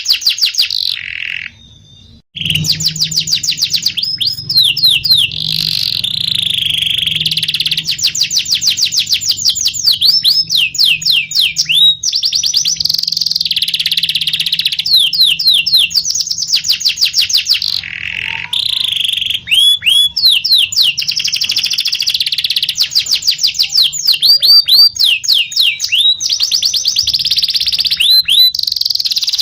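Domestic canary singing a long song of fast rolled trills and runs of quick repeated chirps. The song breaks off briefly about two seconds in, then carries on without pause.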